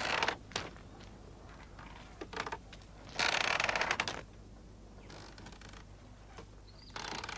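A mechanism creaking and rattling in short bursts. The longest and loudest burst comes about three seconds in and lasts nearly a second.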